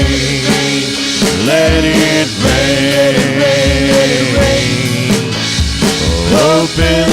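Live gospel praise band playing an instrumental passage: a drum kit keeps a steady beat under sustained pitched instruments whose notes slide up and down between chords.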